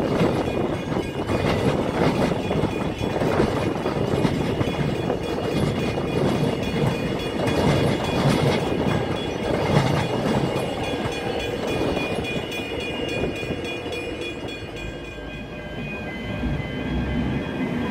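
X'Trapolis electric suburban train passing close by at speed: rushing wheel and rail noise with repeated clattering knocks over the rail joints. It dies down near the end.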